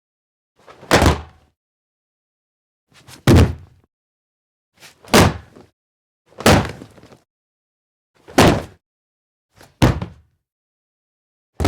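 Fireworks shells bursting, one sharp bang at a time, about every one and a half to two seconds, seven in all, each dying away quickly with dead silence between: library sound effects rather than live recording.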